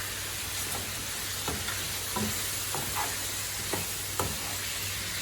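Pork ribs and minced garlic sizzling steadily in hot oil, sugar and honey while being stirred, with several short knocks of the stirring utensil against the pan.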